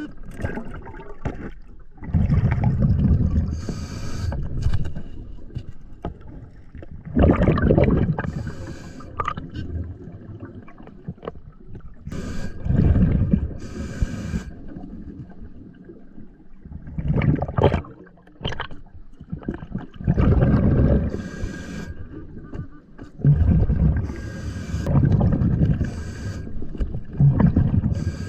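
Scuba diver breathing through a regulator underwater: a short hissing inhale, then a burst of exhaled bubbles, repeating about every four to five seconds.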